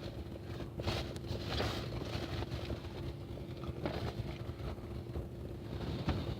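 Pickup truck's engine running with a steady hum while it tows a sled, under a rushing noise that swells now and then.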